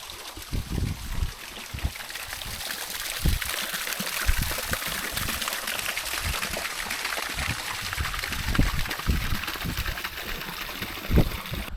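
River water rushing and splashing in a steady hiss, growing louder toward the middle, with low thuds mixed in throughout.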